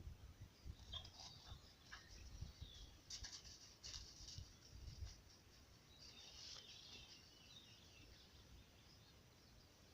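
Faint forest ambience with scattered small-bird chirps and a few soft low knocks, fading to near silence.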